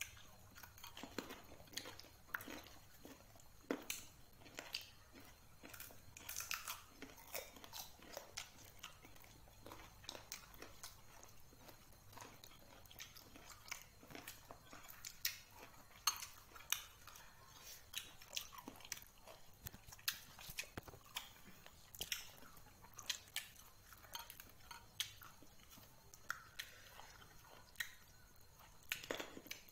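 A person biting and chewing slices of green mango, with many short crunches and mouth clicks scattered throughout.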